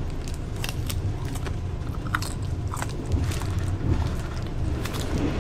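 A person biting into and chewing mango close to the microphone: a run of short, irregular wet mouth clicks over a steady low rumble.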